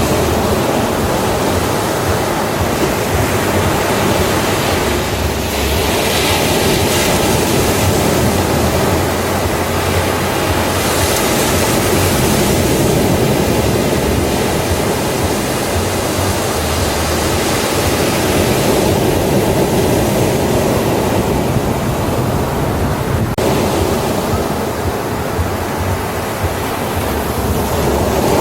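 Ocean surf on a beach: a continuous rush of breaking waves, with the hiss swelling as waves break about six seconds in and again around eleven to thirteen seconds in.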